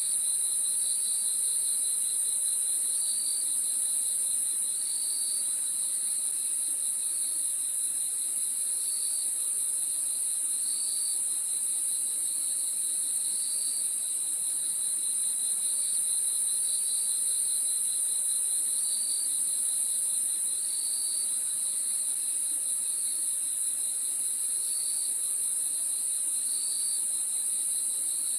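Crickets chirping at night in a steady chorus: a constant high shrill trill, with a lower pulsed trill and short chirps repeating about every second or two.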